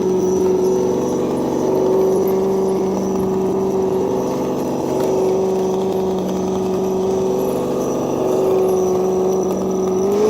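Simulated V8 engine sound from an ESS Dual Plus sound module, played through the scale RC crawler's small onboard speaker, held at a steady low rev while the truck crawls, then rising slightly in pitch at the very end. A thin steady high whine runs under it.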